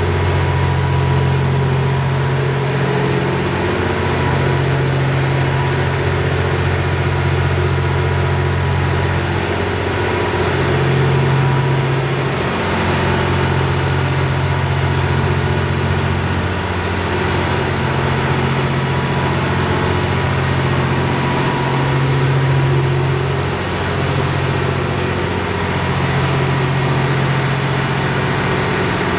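Diesel engines of the Twilight Express Mizukaze (JR West 87 series) idling at a standstill: a steady low drone whose hum swells and eases every few seconds.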